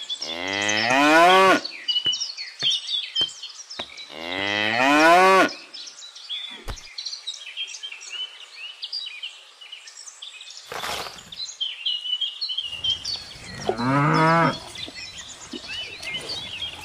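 A cow mooing three times, each moo a long call of a second or more, with small high chirps in the background.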